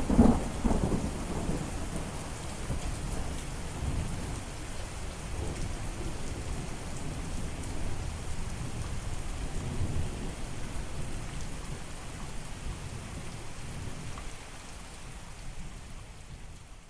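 Steady rain with rolling thunder: a loud thunder rumble at the start dies away, softer rumbles follow, and the storm sound gradually fades out near the end.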